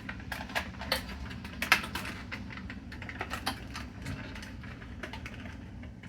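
Irregular light plastic clicks and rattles as wiring-harness cables and connectors are handled and tucked into place around a washing machine's control board, with one louder click a little under two seconds in.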